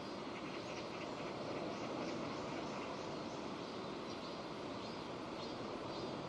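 Steady rain falling, an even hiss without breaks, with faint short high chirps repeating through it.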